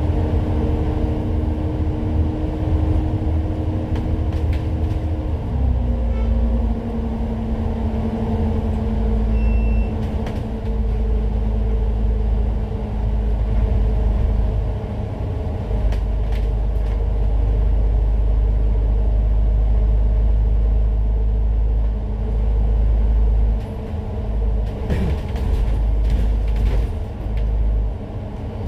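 Citybus double-decker bus under way: steady engine and drivetrain rumble with a tonal whine that steps down in pitch about five and a half seconds in, then holds lower, with occasional light rattles.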